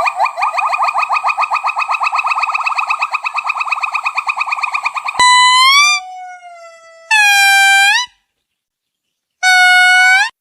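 Primate calls: a fast run of short, rising whistle-like notes, about ten a second, for about five seconds. Then, after a sudden cut, three separate long, clear calls with short silences between them.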